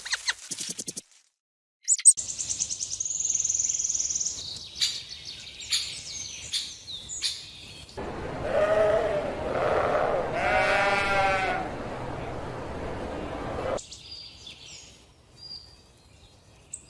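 Animal calls: high-pitched chirps and trills in the first part, then a few longer, lower pitched calls around the middle.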